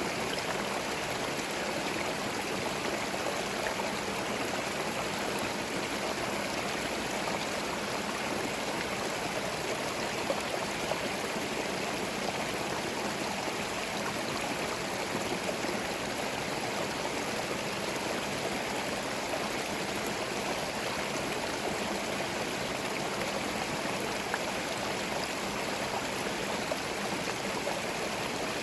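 Forest stream running steadily over stones, an even rush of water with small splashes and gurgles.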